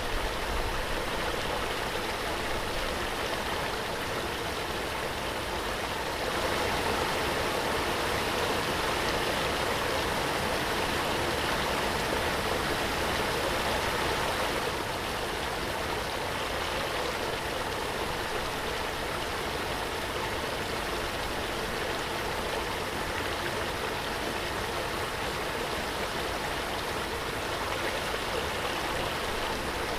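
Waterfall: the steady rush of falling water, a little louder from about six seconds in until about fourteen seconds.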